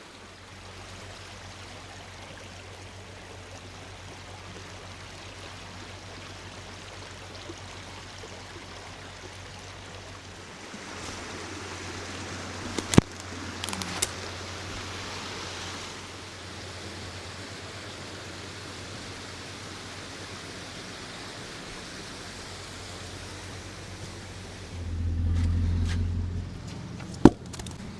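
Creek water flowing steadily, with a low steady hum underneath. A few sharp clicks or knocks come about halfway through and again near the end, and a brief louder low rumble shortly before the end.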